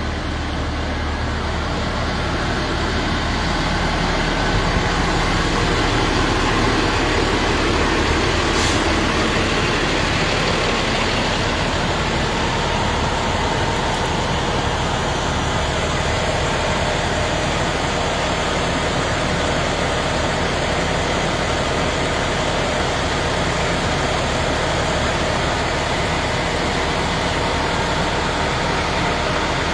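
A large vehicle's engine running steadily close by, over constant street noise, with a short sharp hiss about eight or nine seconds in.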